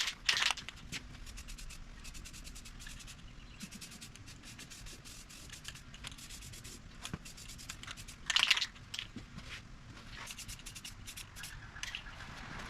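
Faint scraping, rubbing and clicking handling noises, with a louder scrape near the start and another about eight seconds in.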